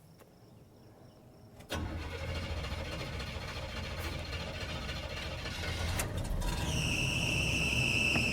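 Square-body 2500 pickup's engine cold-started: it catches suddenly about two seconds in and settles into a steady idle with no throttle. From about six and a half seconds a steady high squeal from the serpentine/accessory belt comes in, which the owner puts down to an old, cracked belt that is still cold.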